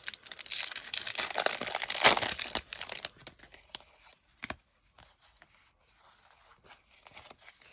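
Foil Pokémon booster pack wrapper being torn open and crinkled for about the first three seconds. A single sharp click comes about a second and a half later, followed by faint rustling of handled cards.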